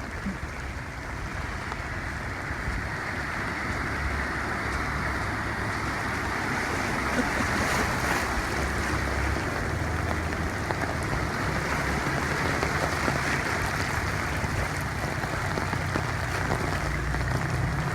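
Heavy rainstorm: a steady rushing hiss of rain and running water, with a low wind rumble on the microphone.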